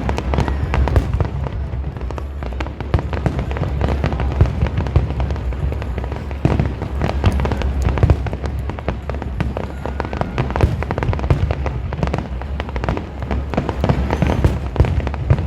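Fireworks display: a dense, continuous crackle of rapid sharp pops and bangs over a steady low rumble.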